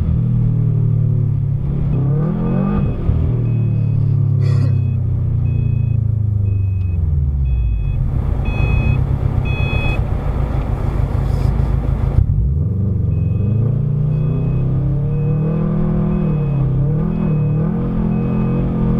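2008 Subaru WRX STi's turbocharged flat-four engine heard from inside the car, revving up and down as it is driven on snow. About eight seconds in there is a stretch of dense noise that stops abruptly a few seconds later, and a chime beeps about twice a second through much of it.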